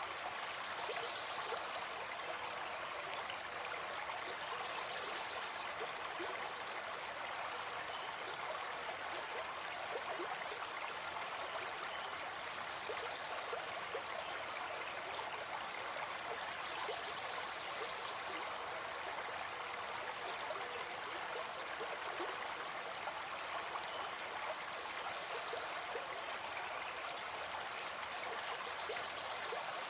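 Gentle forest stream flowing steadily.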